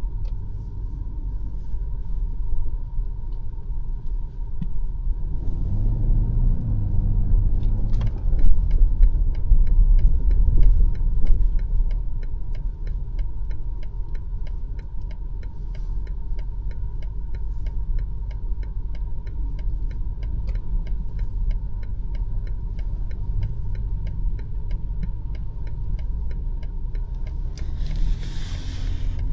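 BMW X5 M50i driving, a steady low rumble of engine and tyres, with the engine picking up briefly about six seconds in. From about eight seconds on there is an even, light ticking, and near the end a short hiss.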